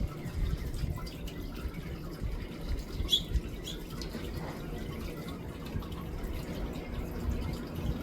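House finches giving two short, high chirps about three seconds in, over a steady low background rumble with scattered small clicks.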